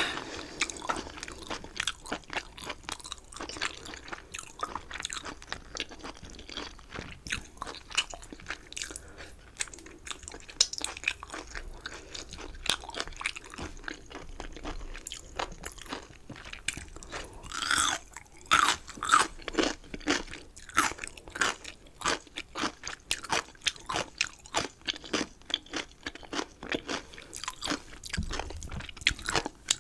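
Close-miked chewing of crunchy chicken: a steady run of quick, crisp crunches and mouth sounds, with a few louder bites a little past halfway.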